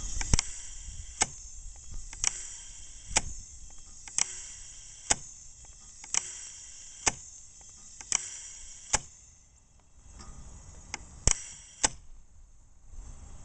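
Zon propane bird cannon from about 1965 cycling with its sparker removed, so there is no blast: its mechanism makes sharp clicks about once a second, then after a pause two more clicks close together near the end.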